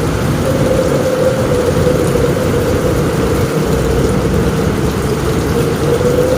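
Heavy thunderstorm rain on a roof: a steady, dense hiss over a low rumble, with a steady, slightly wavering hum running through it.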